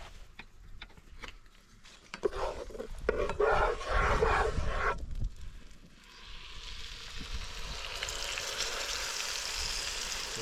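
Clattering and scraping of cookware, then from about six seconds in a steady sizzle of steak frying in a pan.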